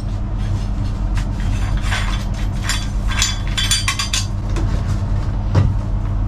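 Scattered metallic clinks and knocks of a disc being changed on an angle grinder, with the old blade coming off and a grit-30 sanding disc going on.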